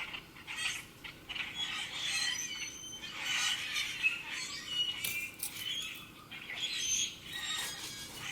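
Wild birds chirping and calling, many short, overlapping calls coming and going.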